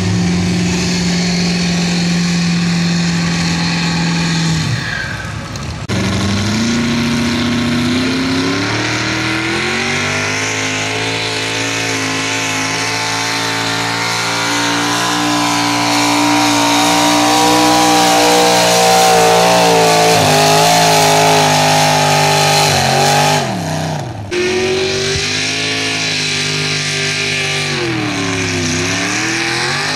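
Diesel pickup engine under heavy load pulling a weight-transfer sled: revs climb and are held high, loudest in the middle of the run. The sound breaks off briefly about five seconds in and again about three-quarters of the way through, and the revs dip and climb again near the end.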